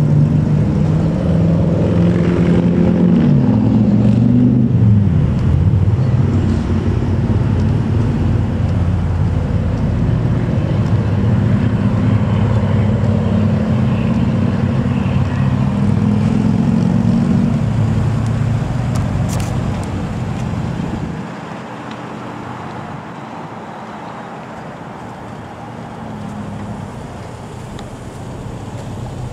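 Police SUV's engine running close by as it drives slowly past and pulls up, its pitch rising and falling in the first few seconds, then holding steady; it gets quieter about 21 seconds in.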